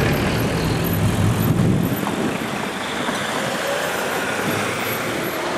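Freight train moving away: wheel-and-rail noise from the boxcars, with the low drone of the 2TE10L locomotive's 10D100 two-stroke diesel engines at the head, which fades after about two seconds.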